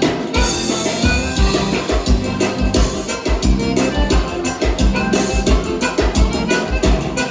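A live band playing an instrumental passage of gaúcha dance music, with a steady drum-kit beat, bass and a lead melody.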